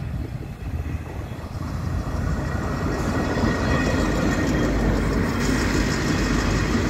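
A train running on the track close by, its rumble growing louder about two seconds in and then holding steady.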